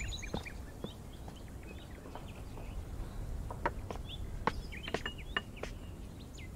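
Small birds chirping in short, quick calls, with several sharp knocks or taps scattered through it, the taps being the loudest moments.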